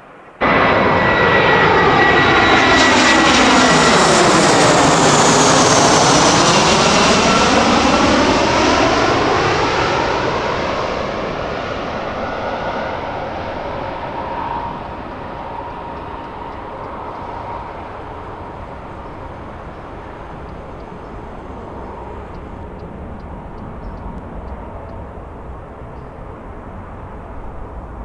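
A Boeing 777-300ER's GE90 turbofan jet engines at takeoff power as it passes close by, loud for the first several seconds with the pitch sweeping down and back up as it goes past, then fading into a distant rumble as it climbs away.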